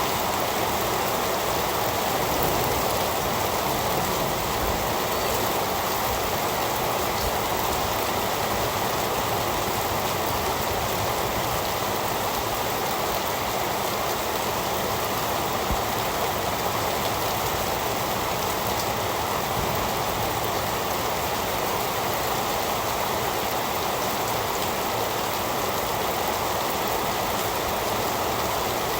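Heavy rain falling steadily: a dense, even hiss of rain on surfaces that does not change.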